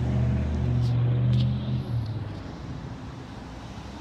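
Low, steady motor hum that fades out about two seconds in, with a couple of faint clicks about a second in.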